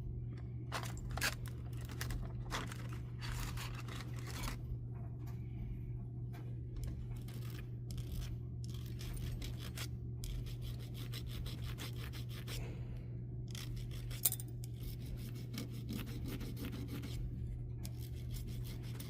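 Small hand file scraping on a brass locomotive motor bracket in short, irregular strokes, testing whether the metal is brass or steel.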